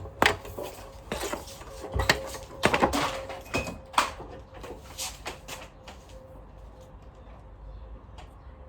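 Clicks, knocks and rustling from handling the parts of an upright Sanitaire vacuum cleaner while fitting its bag. The sharpest knocks come about two and four seconds in, and the handling dies away after about six seconds.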